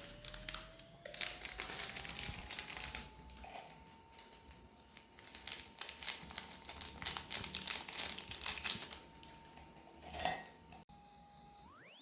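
Plastic packaging crinkling and tearing in bursts of crackles, busiest past the middle.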